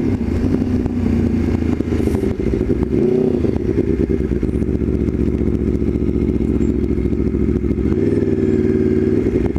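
Aprilia Tuono V4 1100 Factory's V4 engine running under way, its note dipping and rising about three seconds in and changing again near the end.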